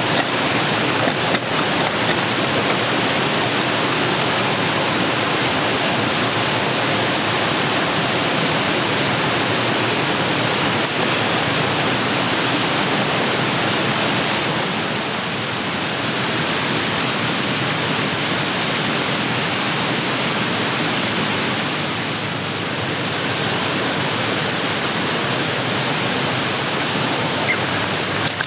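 Steady, even rushing noise with no separate sounds in it, easing off slightly twice.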